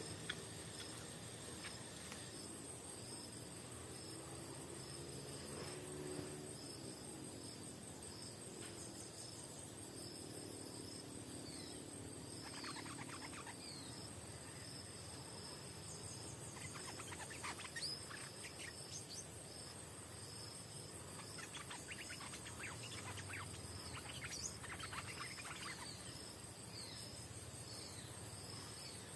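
Outdoor insect chorus: a steady high buzz with a rapidly repeating chirp beneath it, and short bursts of bird calls now and then.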